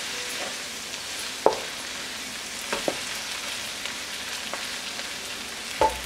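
Sliced onions and spices frying in ghee in a wok, a steady sizzle, as a wooden spoon stirs them and knocks sharply against the pan a few times.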